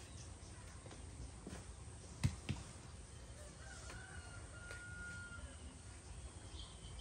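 A rooster crows faintly, one long held call a few seconds in. Just before it come two sharp knocks a quarter second apart, the loudest sounds.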